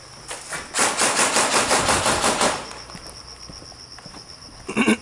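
Airsoft gun firing a rapid full-auto burst lasting about two seconds. After it, crickets or other insects chirr steadily.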